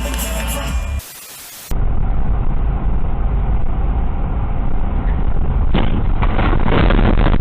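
Car on the road recorded by a dashcam: steady engine and road rumble. After a brief cut about a second in, a run of sharp knocks and rattles sets in near the end.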